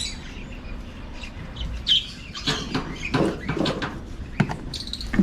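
Small caged parrots chirping in short scattered calls, mixed with a few sharp clicks and knocks, as of handling a wooden breeding box.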